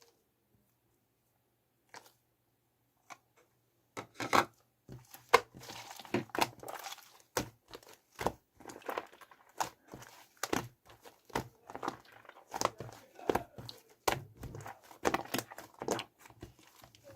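Shaving foam being squished and mixed: a few small clicks at first, then from about four seconds in a long, dense run of irregular wet crackling and squelching.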